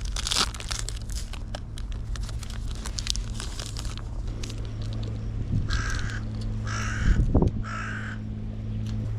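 A crow caws three times in a row, harsh calls about a second apart in the second half. Before the calls comes a stretch of crackling rustle, and a steady low hum runs underneath.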